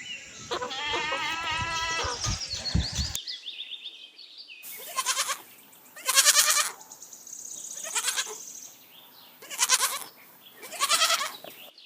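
Adult goat bleating: wavering, quavering bleats for about the first three seconds, then after a short break about five separate loud bleats.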